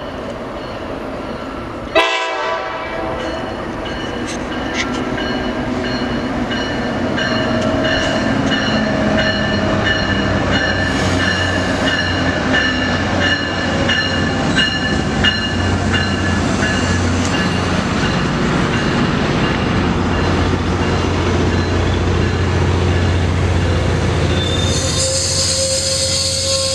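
A train passing close by, its horn sounding a held chord of several tones after a sudden sharp sound about two seconds in. A low rumble builds as the train comes through, and a high squeal starts near the end, typical of wheels squealing on the rails.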